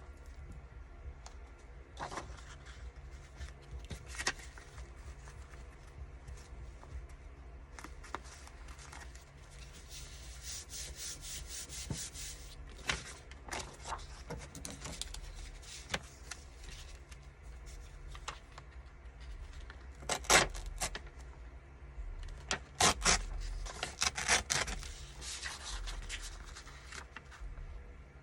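Paper being handled and worked by hand: intermittent rubbing, rustling and scraping strokes, heavier and more frequent about twenty seconds in, over a steady low hum.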